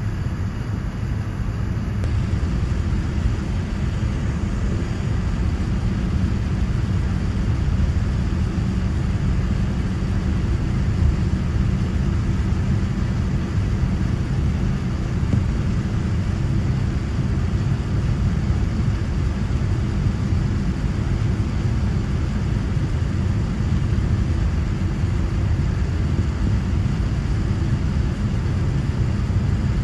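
Steady low rumble of airliner cabin noise aboard a Boeing 787-9, engine and airflow noise with no distinct events, shifting slightly about two seconds in.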